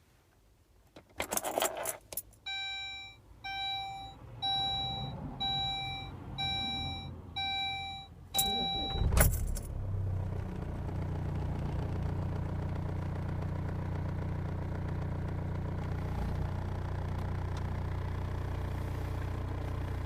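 Keys rattle, then a repeating warning chime beeps about eight times, a little over once a second. The starter briefly cranks the Saab 9-3 2.2 TiD four-cylinder turbodiesel, which catches and settles to a steady idle.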